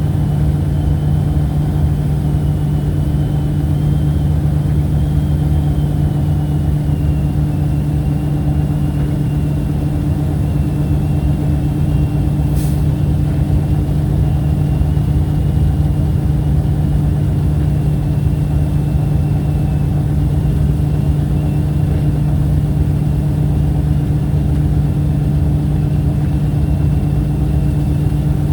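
A steady engine or motor hum holding one low pitch throughout, with a single brief high tick about twelve seconds in.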